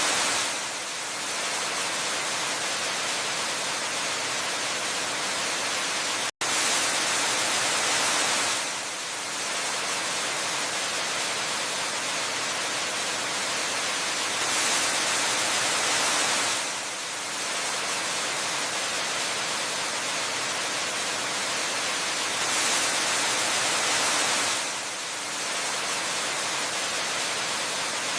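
Waterfall rushing as a steady, even hiss, swelling a little every eight seconds or so. About six seconds in the sound cuts out for an instant and returns.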